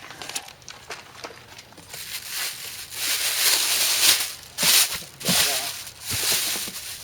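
Plastic packaging crinkling and rustling as it is handled. There are a few light clicks at first, then louder bursts of crinkling from about two seconds in.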